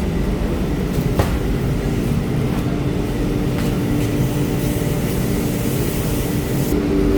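Washing machine running with a steady low rumble and hum; the hum grows stronger near the end. A single sharp click about a second in.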